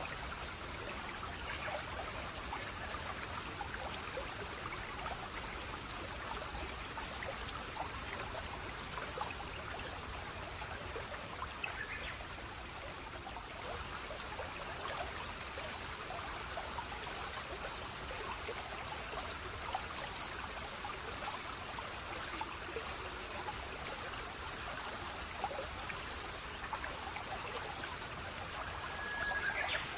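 Stream water flowing and trickling steadily, with two brief higher sounds over it, about twelve seconds in and near the end.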